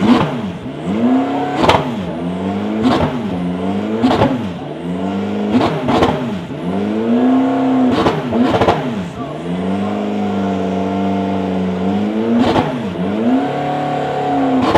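Endurance race cars passing one after another at speed, their engines revving hard and swooping up and down in pitch as each goes by, several overlapping, with short sharp cracks now and then.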